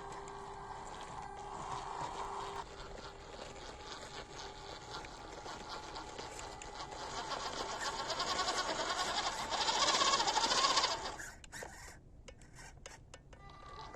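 Small brushed electric motor and gearbox of a 1/16 scale WPL RC crawler running, rising to its loudest about ten to eleven seconds in, then cutting off suddenly, followed by a few sharp clicks.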